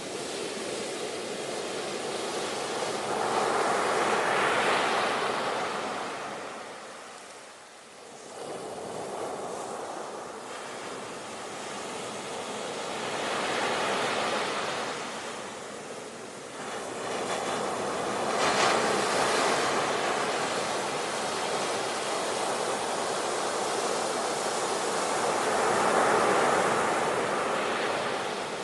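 Ocean surf: waves washing onto a shore in slow swells that rise and fall every several seconds, with a brief lull about a third of the way through.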